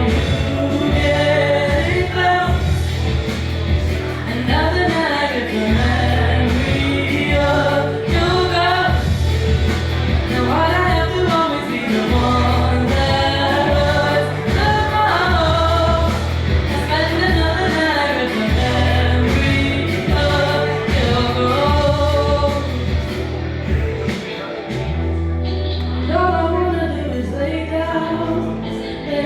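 A voice singing a melody over music with a low bass line. The bass drops out for a moment near the end.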